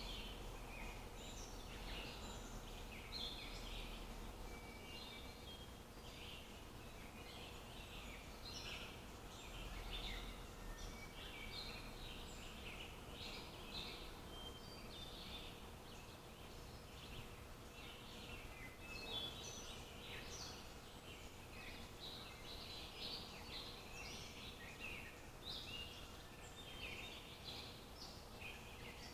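Many small birds chirping and singing in quick overlapping bursts without pause, faint over a low background hiss.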